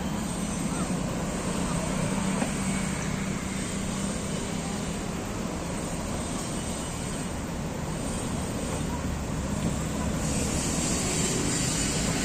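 Steady rumble of distant city traffic, with a few faint short chirps; a high hiss grows louder about ten seconds in.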